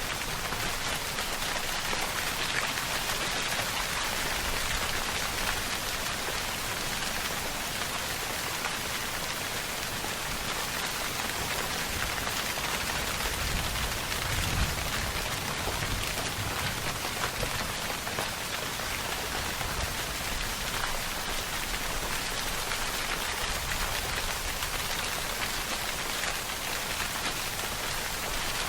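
Steady heavy rainfall pattering on surfaces, an even hiss with individual drops, with a brief low rumble near the middle.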